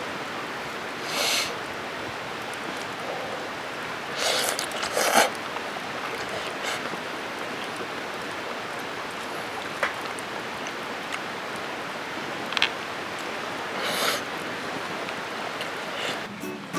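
Steady outdoor hiss with several short rustling sounds, one a little over a second in, two around four to five seconds in and one near fourteen seconds, plus a couple of faint clicks.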